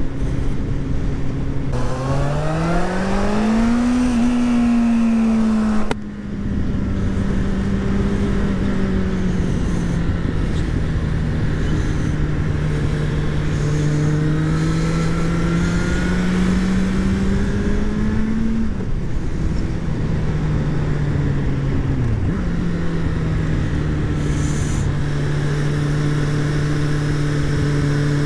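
Kawasaki Z1000 inline-four engine pulling through curves, heard from the rider's seat over steady wind rush. It revs up about two seconds in, breaks off suddenly about six seconds in, then climbs slowly in pitch before dropping sharply twice near the end as the throttle is rolled off.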